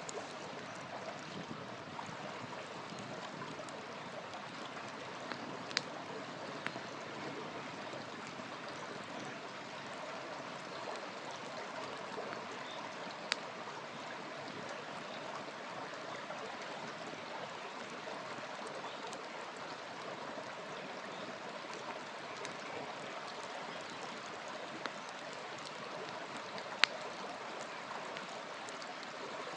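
River water flowing with a steady rush, with a few sharp pops from a crackling wood fire, the loudest near the end.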